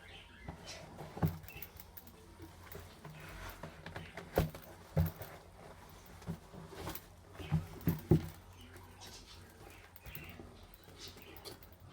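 Irregular handling sounds from work on a shoe: scattered sharp knocks and taps, the loudest about four seconds in and again around eight seconds, with scratchy rustling and scraping in between.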